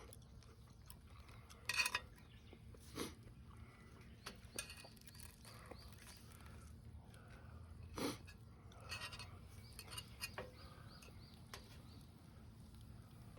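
Scattered clinks and knocks of utensils and dishes being handled at a camp meal, a few sharp taps standing out, over a faint outdoor background.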